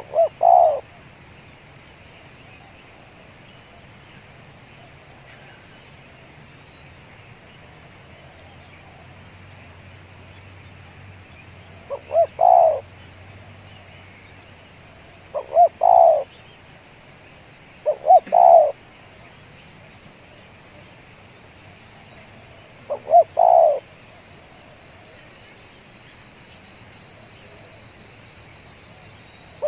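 Spotted dove (tekukur) cooing: five phrases, each two short notes and a longer one, at uneven gaps of a few seconds. A steady high drone runs underneath.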